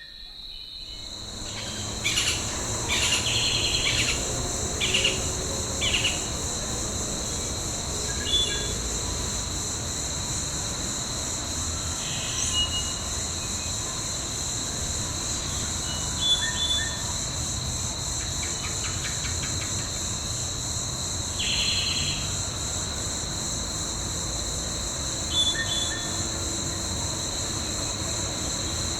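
Steady insect chorus, a continuous high-pitched drone with a steady shrill tone beneath it, fading in at the start, with short bird chirps scattered throughout.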